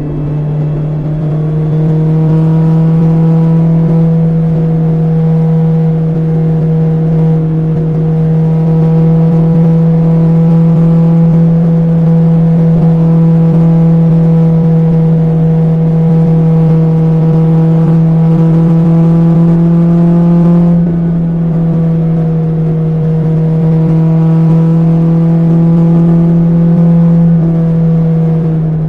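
BMW S1000XR's inline-four engine with an Akrapovic exhaust under way at a steady, constant engine speed. About two-thirds of the way through it briefly eases off and then carries on steady, and near the end the pitch starts to drop as the throttle comes off.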